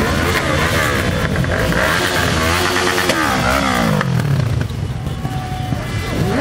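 Several motorcycles riding past one after another, their engines revving, overlapping engine notes that rise and then fall in pitch as bikes pass.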